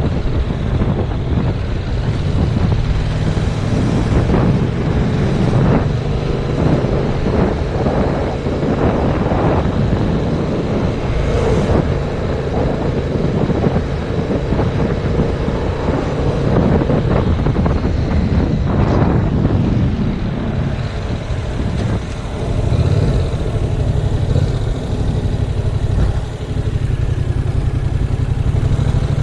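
Yamaha MT-07's parallel-twin engine running on the move, buried under heavy wind rumble on the GoPro microphone. About two-thirds of the way through, the wind eases and the engine settles to a steady low-rev note.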